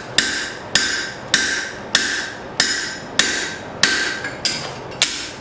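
Blacksmith's hammer driving a drift through a punched hole in steel plate to open it up to half an inch: steady, evenly spaced blows, about nine in all, each with a ringing metallic tone.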